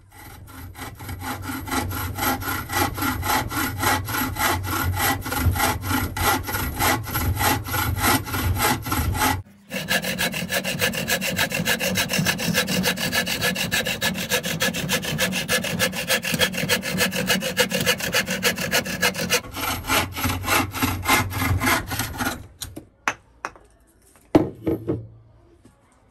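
Hand saw cutting wood with steady back-and-forth strokes. The sound stops and restarts abruptly twice. After the sawing ends near the end, there are a few scattered knocks.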